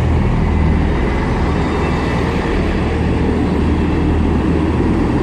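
Diesel engines of a pair of coupled Class 158 diesel multiple units running, a steady low rumble.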